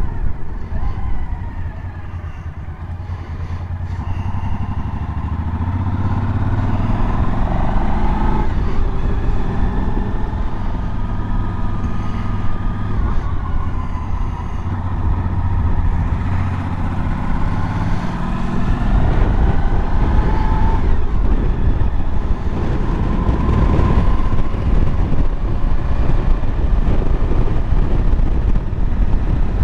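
Suzuki V-Strom DL1000's V-twin engine pulling the bike along an open road, its pitch climbing and then dropping several times as it runs through the gears, over a heavy low rumble of wind and road noise.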